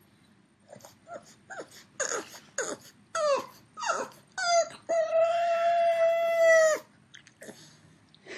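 A dog giving a string of short whines that fall in pitch and grow louder, then one long held howl lasting about two seconds.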